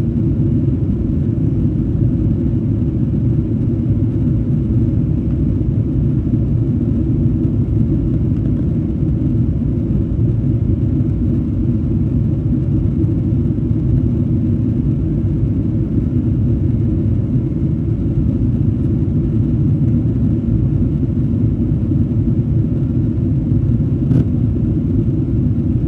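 Airliner cabin noise in flight: a steady low rumble of jet engines and airflow.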